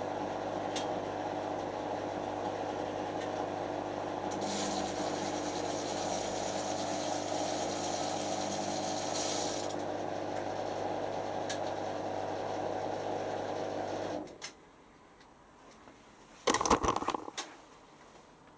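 Creda Simplicity W120VW washing machine's motor running steadily, then switching off about fourteen seconds in. A couple of loud clattering knocks follow about two seconds later.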